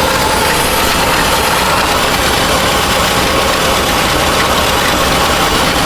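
The 1970 Chevy C-40 truck's engine idling steadily.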